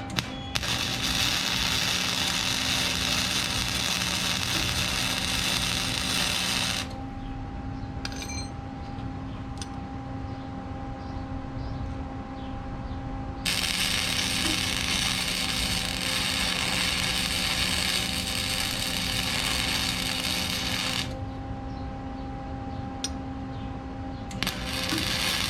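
MIG wire-feed welder laying three weld beads on steel bracket plate, each a long, steady arc crackle of several seconds. A steady machine hum runs underneath between the beads.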